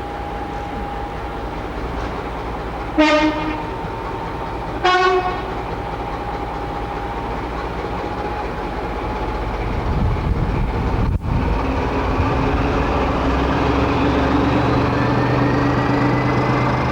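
Diesel locomotive idling, sounding two short horn blasts about two seconds apart, then its engine note grows louder and starts rising as it powers up.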